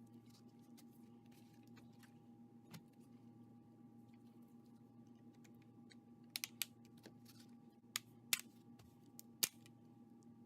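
A few sharp clicks and taps from small hard laptop parts and tools being handled during disassembly: a quick cluster a little past halfway, then three single clicks, over a steady low hum.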